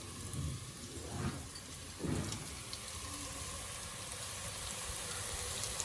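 Ginger-garlic and coconut masala paste frying in oil in a pan: a steady sizzle with faint crackles, the paste fried down until the oil separates. A few soft low thumps come about half a second, one second and two seconds in.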